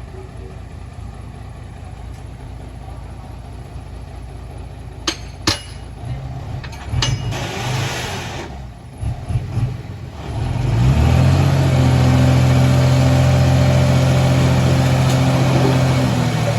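Heavy diesel earthmoving-site engine running low and steady, with two sharp knocks about five seconds in and some uneven engine changes, then about ten seconds in the engine is run up and holds loud and steady.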